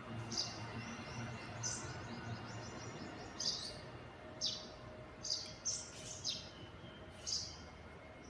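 A small bird chirping, about ten short, sharp, high-pitched chirps at irregular intervals, each dropping quickly in pitch.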